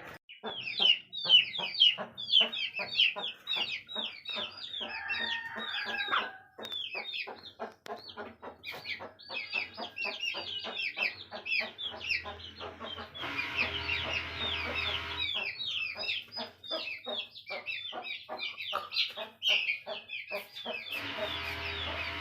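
Aseel chickens calling in a continuous run of short, high-pitched, downward-sliding peeps, several a second. A brief rumbling rustle comes in about two-thirds of the way through and again near the end.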